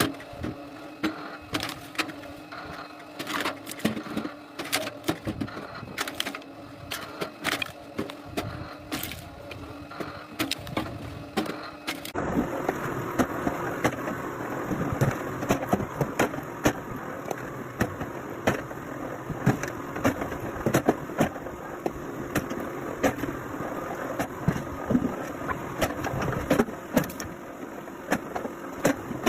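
Machinery running steadily with many sharp knocks and cracks throughout; about twelve seconds in the sound changes suddenly to a louder, denser clatter.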